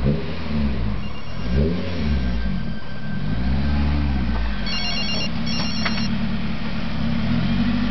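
Lotus Elise engine being revved, its note rising and falling through several throttle blips over a steady run. A little under five seconds in, two short bursts of high trilling electronic beeps sound over it.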